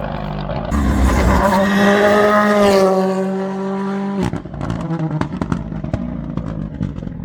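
Race car engine running hard at high revs, then lifting off about four seconds in, followed by a rapid crackle of sharp pops on the overrun.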